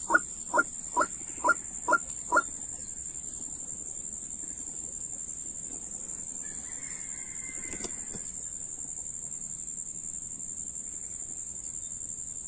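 A bird's short clucking call repeated about twice a second, six notes, stopping about two and a half seconds in. Under it runs a steady high-pitched insect drone.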